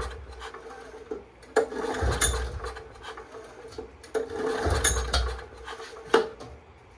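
Recoil pull-starter of a Honda EM3000 generator pulled twice, each pull a rasping whir with the engine turning over but not catching, then a sharp click near the end. The owner wonders if he has flooded it.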